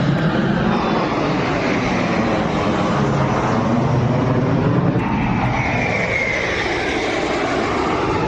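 Loud engine noise of an Indian Air Force military aircraft flying past over the air show, a steady rushing roar whose tone sweeps down and then up as it passes.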